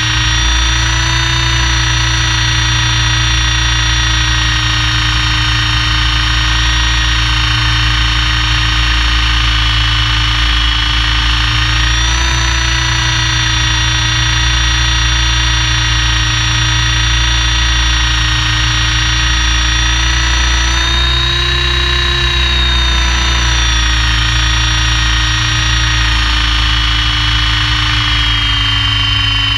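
Helicopter engine and rotor running steadily: a constant mechanical whine that drifts slightly in pitch, over a steady low hum.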